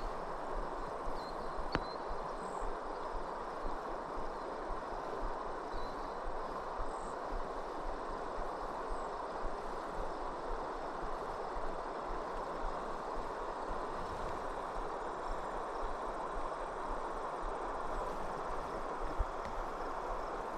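Steady rush of flowing river water, with a few faint, short high chirps over it.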